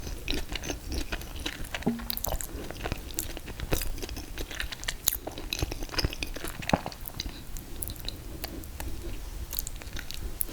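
A person chewing and biting ice cream cake made of confetti cake and mint chocolate chip ice cream, heard close up: irregular wet mouth clicks and small crunches.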